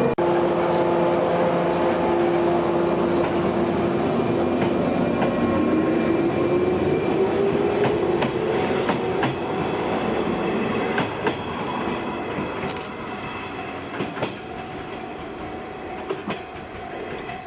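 Old JNR-type electric train running on the rails. A steady motor tone rises in pitch about five seconds in, then the sound gradually fades, with sharp clicks of the wheels over rail joints.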